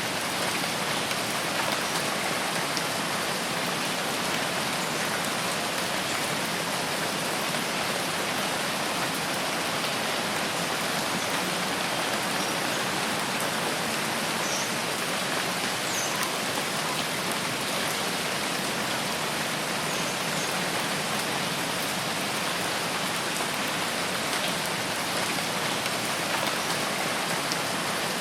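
Steady, even rain falling, a continuous hiss of drops with no change in strength.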